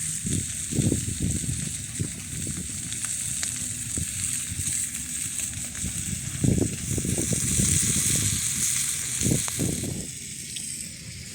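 Food sizzling steadily as it fries over a campfire, with irregular low rumbles breaking in, strongest about six and a half and nine and a half seconds in.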